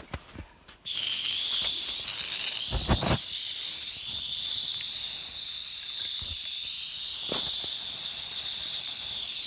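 Steady high-pitched insect stridulation that starts suddenly about a second in, with a few dull knocks, the loudest about three seconds in.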